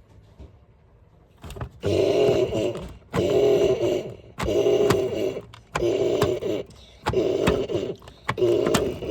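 Washing machine running its wash action in rhythmic strokes: after a quiet start, a loud motor-driven churning comes in about a second and a half in and repeats in even pulses, each about a second long with short gaps between.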